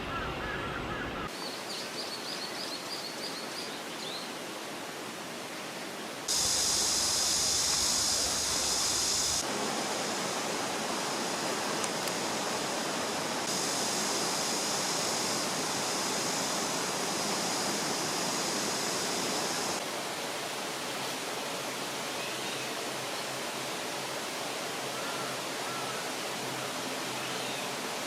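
Steady rush of water in a mountain valley stream, its level and hiss changing abruptly several times, with a few faint bird chirps about two seconds in.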